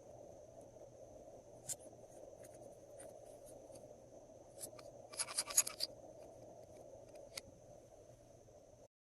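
Glossy slime being worked by hand: scattered small clicks and pops, with a quick run of louder clicks a little after five seconds in, over a faint steady hum. The sound cuts off just before the end.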